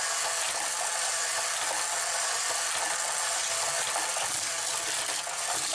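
Hot Wheels Power Tower wall track running with die-cast cars on it: a steady mechanical whirring and rattling, with faint light clicks of the small cars on the plastic track.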